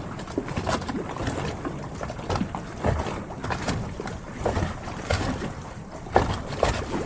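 Harbour water lapping and splashing against the hulls of moored yachts, in irregular small slaps and gurgles a few times a second.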